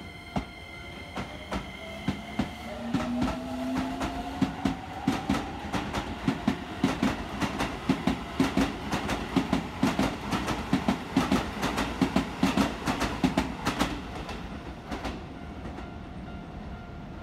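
Hokuso Railway electric commuter train pulling away. Its motors give a whine that rises in pitch over the first few seconds, then the wheels clack over rail joints in a quickening rhythm that dies away about fifteen seconds in.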